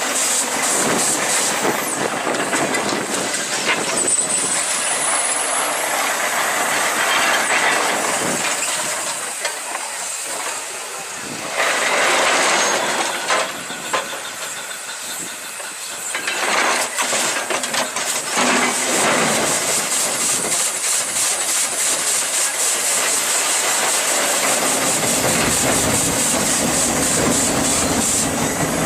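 Steam engine hissing steadily, with louder blasts of escaping steam about twelve and seventeen seconds in.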